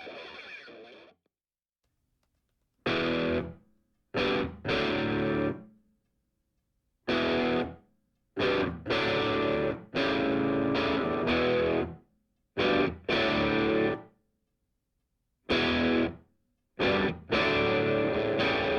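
Background music: distorted electric guitar playing chords in stop-start bursts, broken by short gaps of silence.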